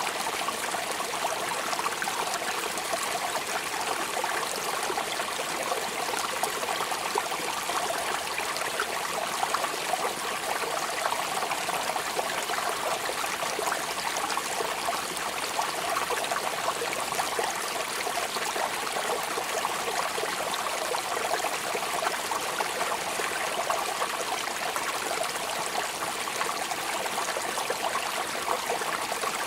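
Steady, even rainfall with no pauses or changes.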